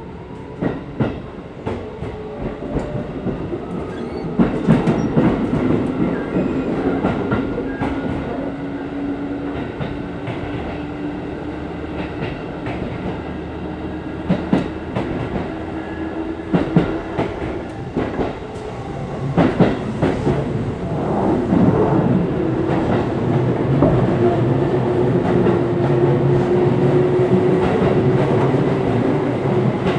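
Interior sound of a Seibu 3000 series electric train car under way: the steady hum and whine of the traction motors and gears, climbing slowly in pitch in the second half, with the wheels clicking over rail joints in irregular clusters.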